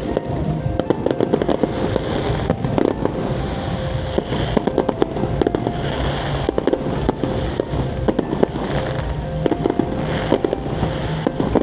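Fireworks display: a dense run of bangs and crackling, several a second, over steady background music.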